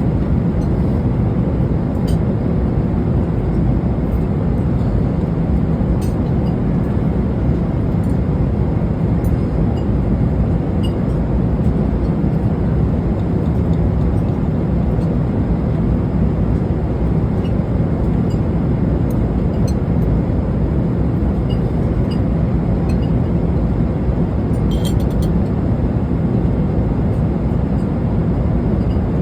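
Steady rumble of an airliner cabin in flight, engine and airflow noise, with a few faint clicks and rattles.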